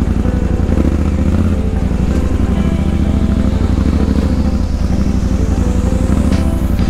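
KTM adventure motorcycle engine running steadily at low trail speed, heard from the rider's helmet. In the second half a thin high sweep rises steadily in pitch and cuts off at the end.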